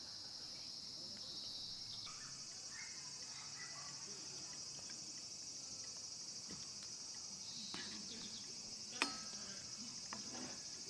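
Insects chirping in a steady, high-pitched chorus, with a single sharp click about nine seconds in.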